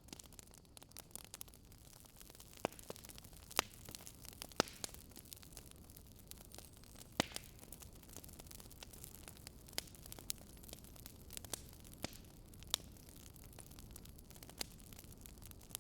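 Wood fire crackling: a soft steady hiss with sharp, irregular pops every second or two.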